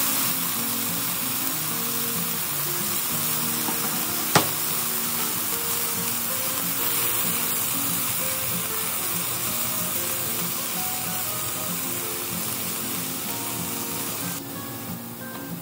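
Chicken pieces, onion and garlic sizzling in a nonstick frying pan as they are stir-fried with a spatula, with one sharp knock about four seconds in; the sizzle drops away near the end. Background music plays throughout.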